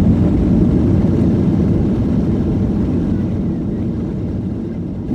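Jet airliner cabin noise: a steady low rumble of engines and airflow that slowly eases off.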